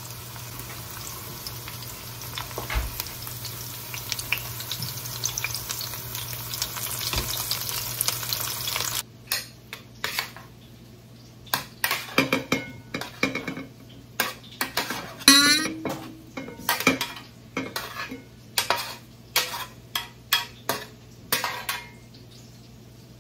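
Breaded chicken breasts frying in olive oil in a sauté pan: a steady sizzle with fine crackling. It cuts off abruptly about nine seconds in, and a string of separate sharp clinks and knocks of utensils against pans and dishes follows.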